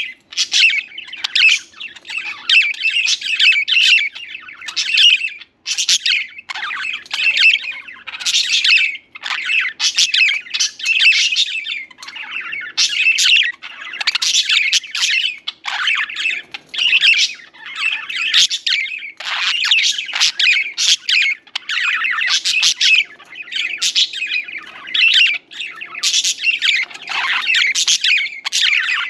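Budgerigars chattering and warbling without a break, a dense stream of chirps and squawks.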